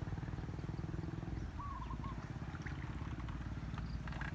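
A small engine running steadily with a fast, even pulse. A short high wavering call sounds briefly about a second and a half in.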